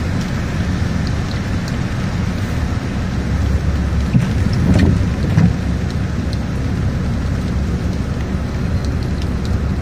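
Raindrops ticking on a car's windshield over a steady low rumble from inside the car and the traffic around it, with a brief louder rumble and a few knocks about halfway through.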